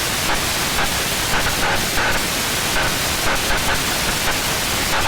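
Steady cabin noise of a Cessna 172B in a full-power climb: its six-cylinder Continental O-300 engine and the airflow blend into an even hiss-like noise.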